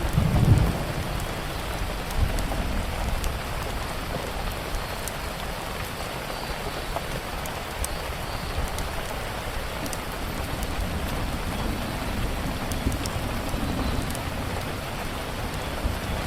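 Steady rain falling, with a short low rumble of thunder about half a second in. Scattered small crackles from a wood fire come through the rain.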